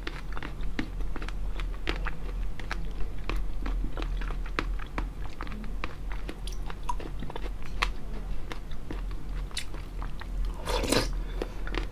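Mouth chewing crisp jelly pearls with water chestnut inside: a steady run of small wet clicks and crunches, over a low steady hum. A brief louder noisy sound comes near the end.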